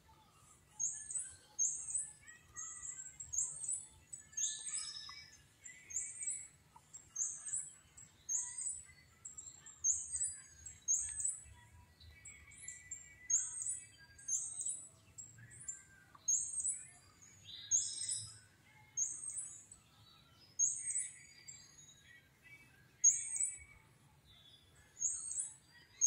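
Small songbirds chirping: a high, thin note repeated over and over about once a second, with softer, lower calls from other birds in between.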